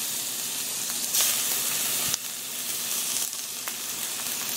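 Lemon slices frying in hot butter and oil in a cast iron skillet, a steady sizzle as more slices are laid in. The sizzle swells for about a second near the middle, then drops back suddenly.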